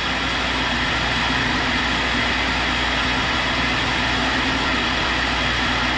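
Tool and cutter grinder running steadily while its wheel grinds the end of a four-flute roughing high-speed steel end mill, fed in one thousandth of an inch. Under it runs a steady hiss of air from the air-spindle fixture.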